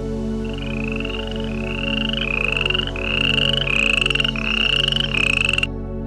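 An animal calling in a quick series of about eight short, buzzy, rising calls, one after another, cutting off abruptly near the end; soft background music runs underneath.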